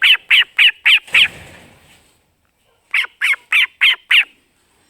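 A pet starling calling in two quick runs of five short, harsh calls, about three a second, one run at the start and another about three seconds in. A brief faint rustle follows the first run.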